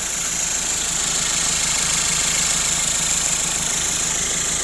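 Car engine idling steadily, with a steady high-pitched hiss over it.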